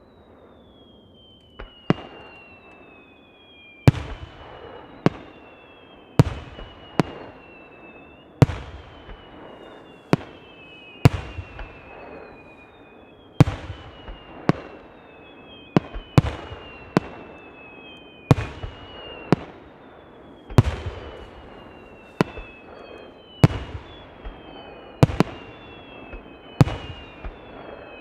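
Fireworks display: aerial shells bursting in a steady run of sharp bangs, one every second or two, each echoing away. High whistles sound over the bangs, overlapping, each sliding slowly down in pitch.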